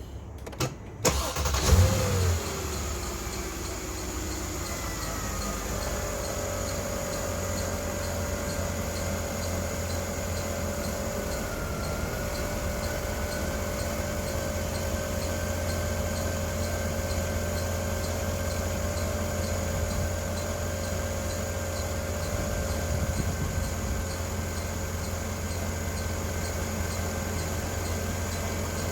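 Mercedes-Benz W221 S550 V8 starting about a second in: a brief crank, the revs flare and fall back over the next few seconds, then it settles into a steady idle. It is run on fresh oil after an oil change so the oil circulates before the level is rechecked.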